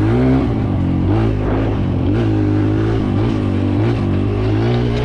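Kawasaki KLX140L dirt bike's single-cylinder four-stroke engine revving up and down as it is ridden, the pitch rising and falling several times in quick succession with the throttle.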